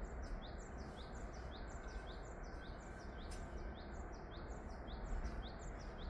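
A small bird chirping steadily, a quick run of short rising notes about three or four a second, over a steady low background noise.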